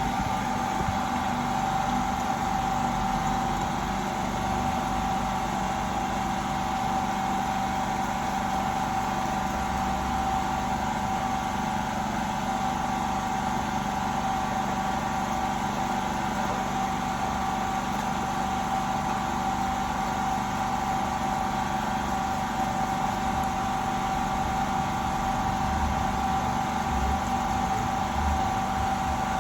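A small motor or fan running steadily, with a continuous high whine over a low hum.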